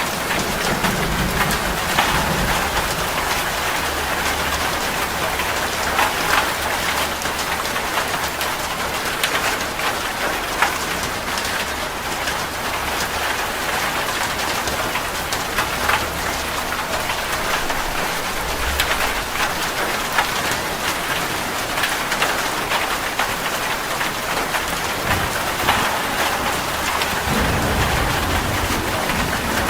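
Heavy rain falling steadily on a metal roof, with many sharp drop strikes, and low thunder rumbles swelling several times, one near the end.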